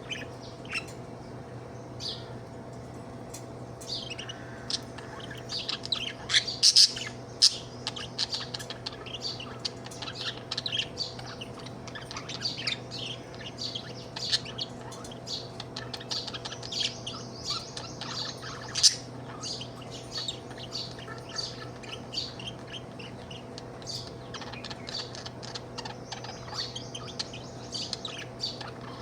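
Budgie chirping and chattering in quick runs of short, high chirps. The chirps are sparse at first and busier from about four seconds in, over a steady low hum.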